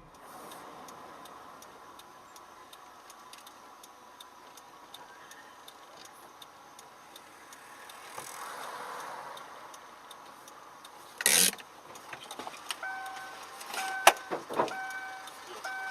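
Car cabin with a steady faint ticking, about three clicks a second, like a turn-signal indicator. About eleven seconds in comes a loud sudden crash of impact. A couple more knocks follow, along with a repeating on-off electronic beeping.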